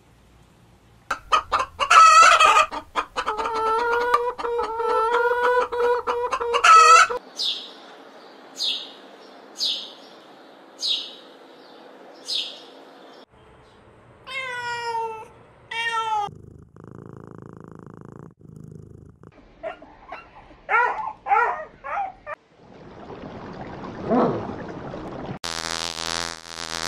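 A string of different animal calls in turn: a frog calling in long warbling stretches, a run of short high chirps falling in pitch, a cat meowing, clucking, and near the end a bumblebee buzzing steadily.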